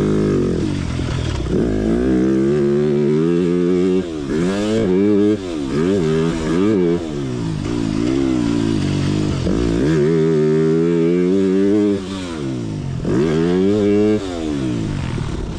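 TM 300 Fi motocross bike's engine under hard riding, revving up and dropping back again and again as the throttle is opened and chopped, with several sudden dips in engine note.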